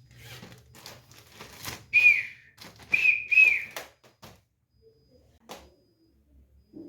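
Three short high whistling chirps, the first about two seconds in and two more close together about a second later, each dipping slightly in pitch, over scattered light clicks and rustles of handling.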